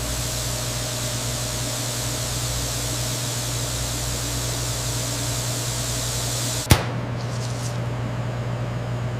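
Factory machinery running with a steady low hum and a hiss over it. About two-thirds of the way through there is one sharp click, after which the hiss stops and the hum carries on.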